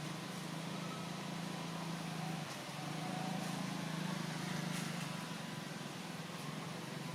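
A steady low hum over faint background noise, with a few faint clicks.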